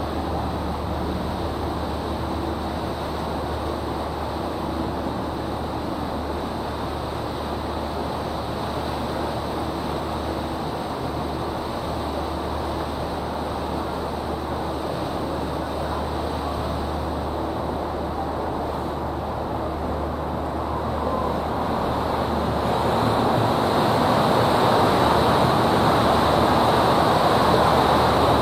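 River tour boat under way: a steady low engine hum under rushing water and wind noise. The rushing grows louder about three-quarters of the way through.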